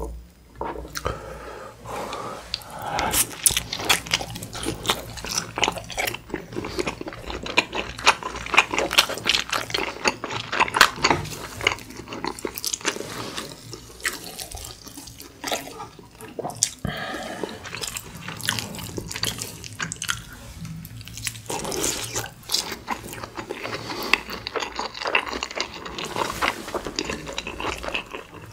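Close-miked eating sounds of a person eating beef rib meat and rice: continuous wet chewing and smacking, with many small clicks of mouth and food.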